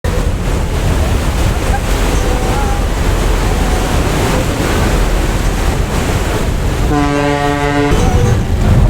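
Steady, loud rush of wind and water. About seven seconds in, a single low horn blast lasts about a second.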